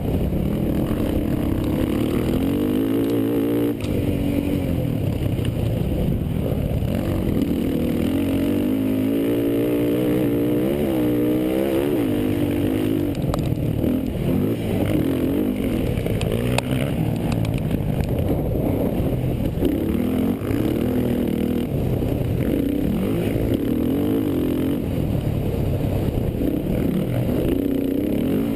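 Racing quad (ATV) engines revving on a motocross track, their pitch repeatedly rising and falling with throttle and gear changes.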